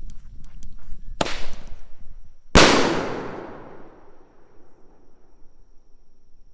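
Single-shot salute firework shot from a tube: a sharp pop as the shell launches, then about a second and a half later a much louder bang from the aerial report, echoing away over a second or so.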